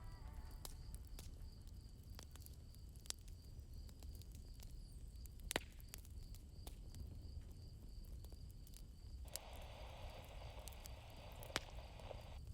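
Campfire crackling: scattered sharp pops over a low rumble, with crickets chirping in a steady, evenly pulsing high trill. From about nine seconds in, a soft hiss rises for a few seconds, then cuts off.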